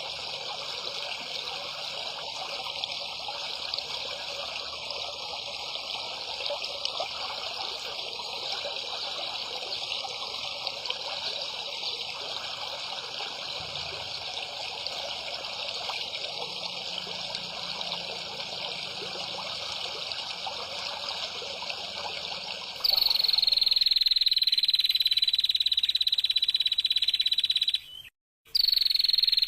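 Outdoor ambience: a steady hiss like running water, then, after an abrupt cut about three-quarters of the way in, a louder continuous high-pitched insect or frog call that sags slightly in pitch. The call breaks off briefly near the end and comes back.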